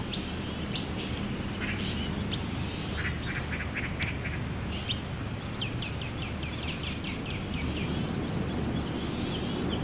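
Small birds chirping repeatedly, with a fast run of chirps about six to seven seconds in, over a steady low background noise.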